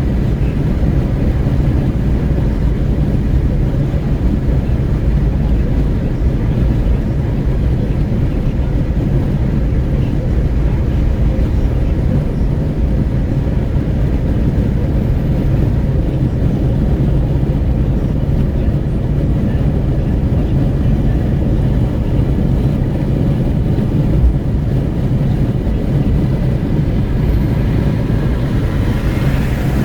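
Wind rushing in at an open window of a Renault Kwid 1.0 at highway speed, a steady deep rumble mixed with road noise inside the cabin. A slightly brighter hiss comes up near the end.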